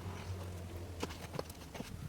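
A few sharp knocks, about three in the second half, over a low steady hum.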